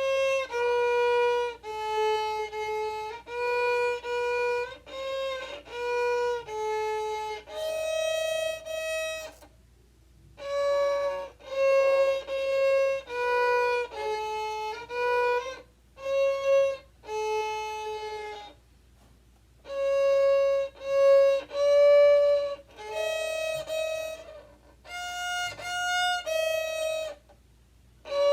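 A solo instrument playing a simple melody, one sustained note at a time, at about a note a second, in short phrases with brief pauses between them.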